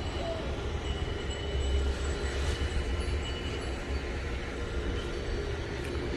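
Steady low rumble of distant road traffic, with a few faint steady high tones above it.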